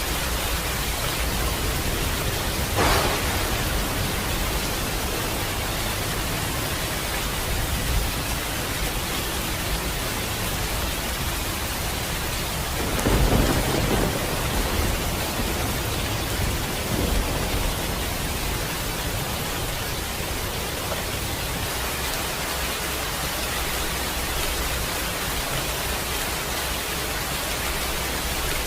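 Steady rainfall with thunder: a sharp crack about three seconds in and a louder, longer rumble near the middle.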